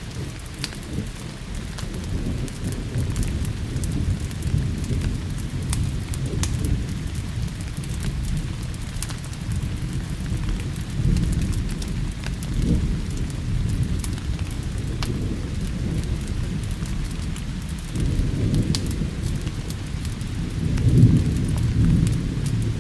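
Steady rain with low rolling thunder rumbling throughout, swelling several times and loudest about 21 seconds in; scattered sharp crackles sound over the top.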